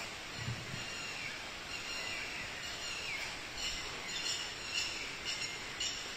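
Small birds chirping over a steady background hiss, with a cluster of quick, short chirps in the second half.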